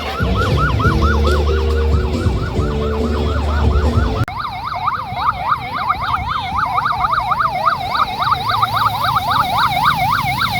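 Electronic siren sounding a fast yelp, rising and falling about four to five times a second. For the first four seconds it plays over music with a heavy bass, which cuts off suddenly.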